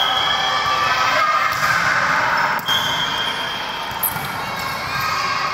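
Basketball bouncing on an indoor court over the steady din of a game, with two brief high squeaks, one at the start and one partway through.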